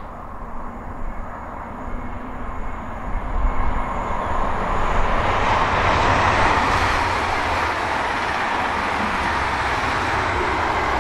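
Sm3 Pendolino electric express train passing at speed. The rush of wheels and air builds over the first few seconds, is loudest about six seconds in, and then runs on steadily.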